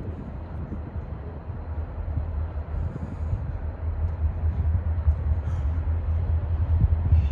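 Train running, a low rumble that slowly grows louder.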